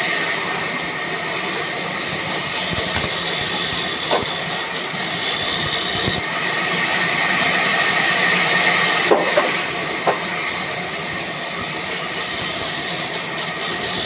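Band saw in a sawmill running with a steady loud hiss and a high whine, with a few short knocks in the second half.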